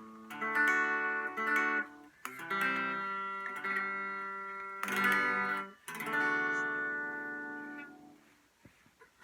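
Epiphone Les Paul Special electric guitar played clean on its neck pickup, with volume and tone full up, through a Vox AC4 TV amp on its 1-watt setting. A few strummed chords are each left to ring, and the last one fades away near the end.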